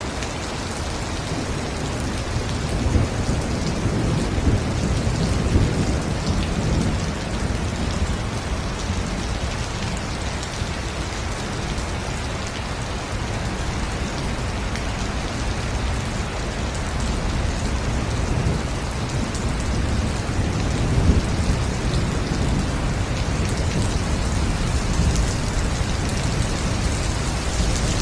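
Steady heavy rain falling on rainforest foliage, with low thunder rumbling a few seconds in and again about three quarters of the way through.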